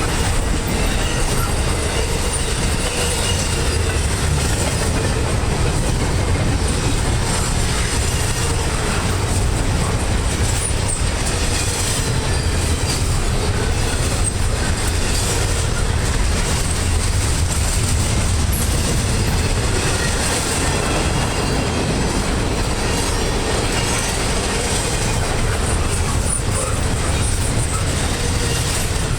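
Double-stack intermodal freight cars rolling past: a steady rumble of steel wheels on the rails, with faint wheel squeal now and then.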